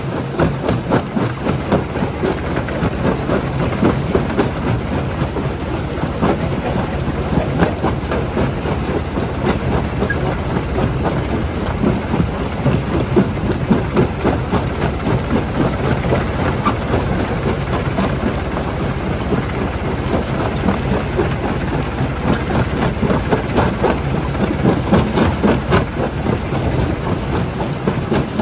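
Primary jaw crusher at work: a steady low machine drone with a dense, irregular clatter of rock knocking and cracking as stone is crushed.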